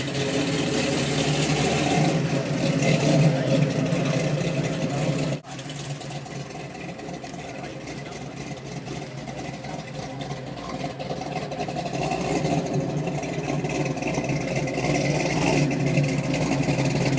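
Car engine running, with people talking in the background. The sound drops off abruptly about five seconds in, then builds back up.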